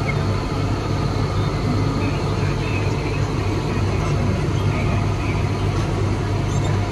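Mumbai suburban electric local train running, a steady rumble heard from inside a packed passenger coach.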